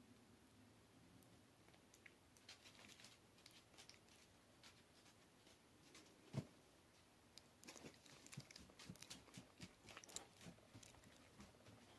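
Faint wet clicks and crunches of someone chewing grapes, with one louder knock about six seconds in.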